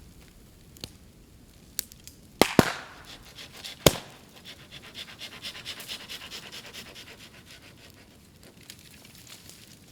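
Bamboo burning on an open bonfire: a few sharp pops, then two loud cracks as the heated bamboo bursts, followed by a rapid pulsing hiss for several seconds that fades away.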